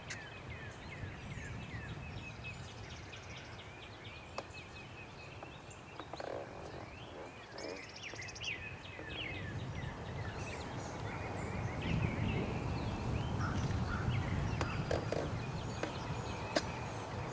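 Songbirds chirping steadily, with a few wild turkey calls breaking in, as a tom is called in across a field. A low rumble of wind grows louder in the second half.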